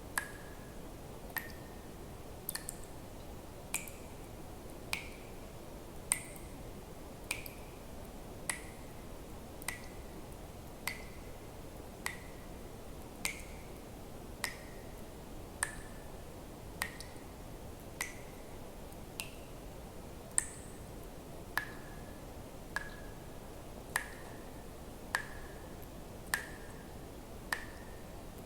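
Water drops falling one at a time at an even pace, about one every 1.2 seconds, each a sharp click with a brief ringing ping whose pitch shifts a little from drop to drop, over a steady low hiss.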